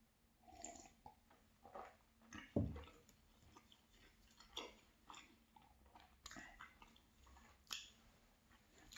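Faint, close chewing of a pastry: soft irregular mouth clicks and smacks, with one louder dull thump about two and a half seconds in.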